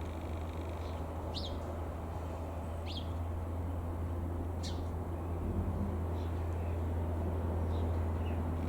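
Steady low outdoor rumble with a handful of short, high bird chirps, the clearest three about a second and a half apart.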